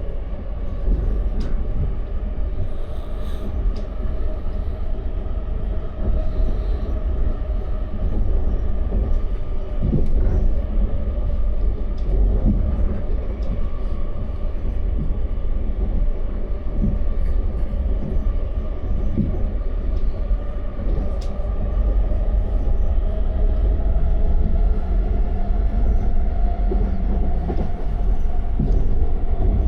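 Passenger train running along the track, heard from inside the carriage: a steady low rumble of wheels on rails with a faint steady hum and occasional knocks.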